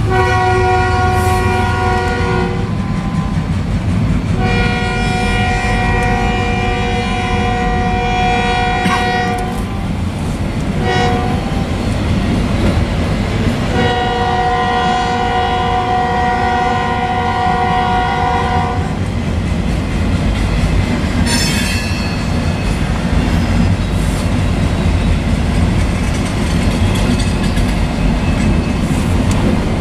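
Freight train cars rolling past with a steady rumble and clatter on the rails, while the locomotive's multi-chime horn sounds the grade-crossing signal: two long blasts, a short one and a long one. A brief high wheel squeal about two-thirds of the way through.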